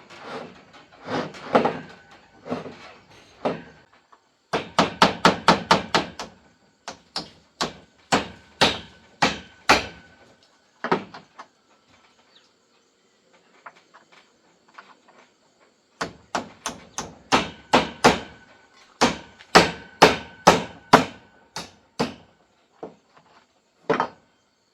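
Repeated hammer blows in runs: a quick flurry, then spaced strikes, a pause, then a steady run of about two blows a second, with one last blow near the end.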